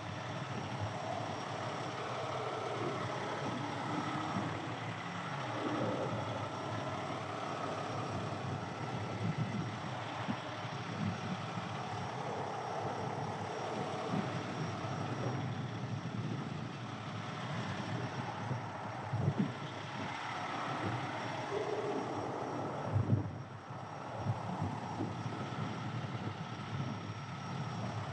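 Steady rumble of vehicle engines and passing highway traffic, with a couple of short knocks about nineteen and twenty-three seconds in.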